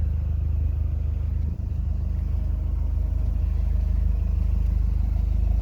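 Audi TT 225 quattro's 1.8-litre turbocharged four-cylinder (BAM) engine idling steadily, a low, even rumble.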